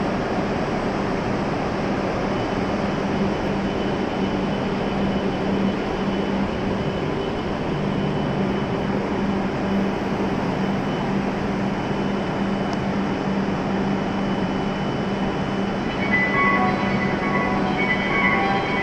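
Steady hum and hiss of an E7-series Shinkansen train standing at the platform, with a low droning tone. About sixteen seconds in, a melodic platform chime starts playing over it.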